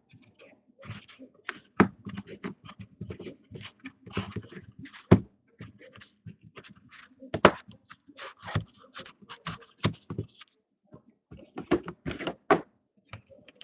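Trading-card packaging and cards being handled and opened: irregular clicks, taps and rustles, a few sharper snaps among them.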